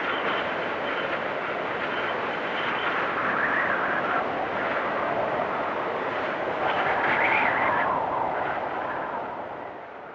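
Blizzard wind blowing in steady gusts, swelling twice with a higher whistling tone, then fading out near the end.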